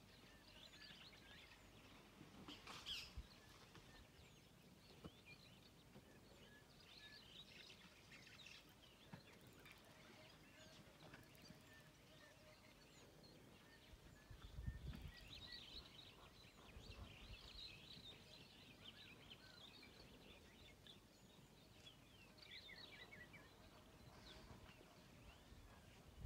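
Faint open-air ambience with scattered chirps and calls of small birds, and a brief low rumble about fifteen seconds in.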